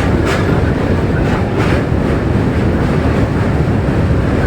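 Train running on rails: a steady, loud rumble with a few sharp clacks of the wheels in the first two seconds.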